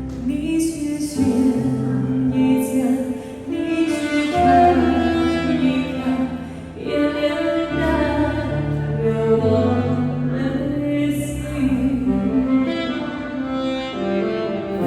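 Saxophone playing a slow, smooth ballad melody over a backing track with sustained bass and string-like chords.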